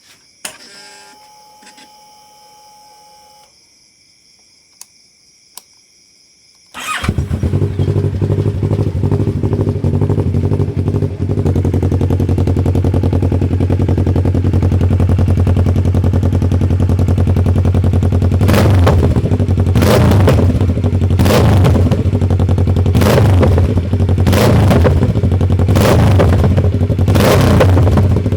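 Superbike engine: after a few seconds of quiet with faint electronic tones, it starts suddenly about seven seconds in and idles steadily. From about two-thirds of the way through, the throttle is blipped roughly once a second, each blip a short sharp surge, the revving that brings on exhaust backfires.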